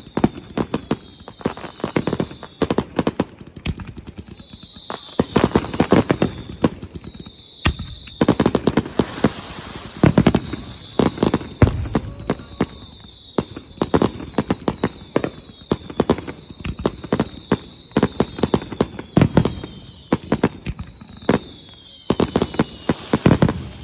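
Fireworks bursting in rapid, dense volleys of sharp bangs and crackles, with high whistles falling in pitch every few seconds.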